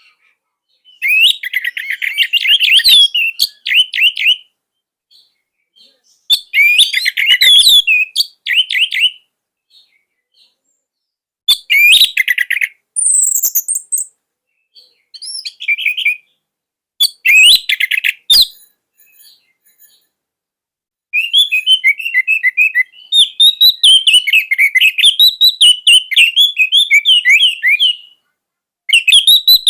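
Orange-headed thrush singing: fast, varied warbling phrases a second or two long with short pauses between them, then a longer unbroken run of song about twenty seconds in.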